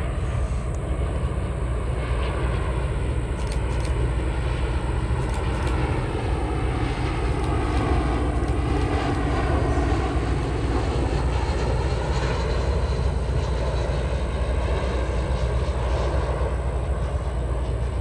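Jet airliner on its landing approach passing by, a steady engine rumble and roar whose tone sweeps down and back up as it passes, loudest about halfway through.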